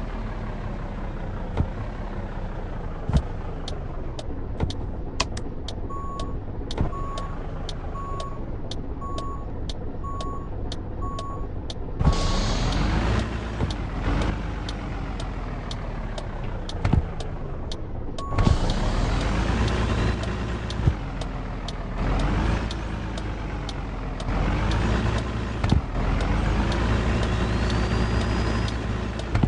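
Truck engine running, its pitch climbing and falling again several times as it accelerates through the gears, louder in the second half. For several seconds in the middle, a regular series of short electronic beeps sounds about every two-thirds of a second.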